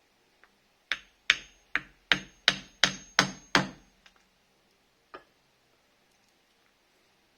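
Hammer strikes: eight sharp blows at about three a second, with a faint high ring, then one more blow a second and a half later.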